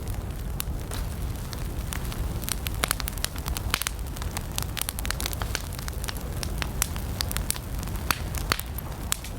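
Wood campfire burning and crackling: irregular sharp pops and snaps, several a second, over a steady low rumble of the flames.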